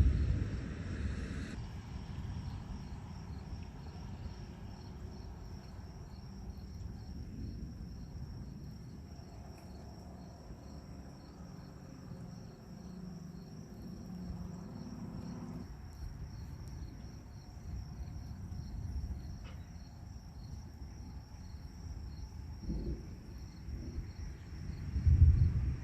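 Insects chirping in a steady, evenly pulsing high trill, over a low background rumble.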